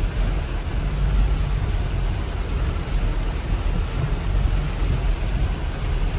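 Swollen floodwater after a cloudburst rushing, a steady deep rumbling roar of water with no letup.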